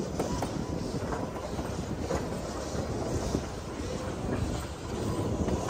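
Puffing Billy's heritage train running along the track: a steady rumble from the wheels, with irregular clacks and knocks.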